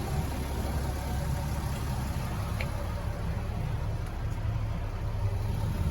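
The 3.0-litre Mercedes V6 diesel of a Freightliner Sprinter 3500 box truck idling, a steady low rumble.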